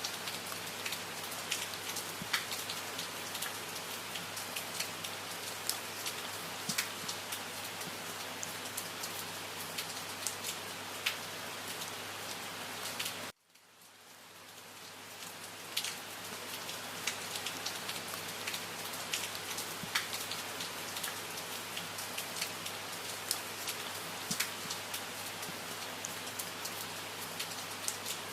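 Steady rain falling, with individual drops clicking sharply through it. About halfway through, the sound cuts out abruptly, then fades back in over a couple of seconds.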